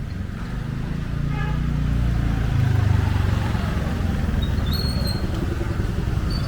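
A motor vehicle, likely a motorcycle, passes close on a street, its engine hum swelling to a peak near the middle and then easing. A short high-pitched tone sounds about five seconds in.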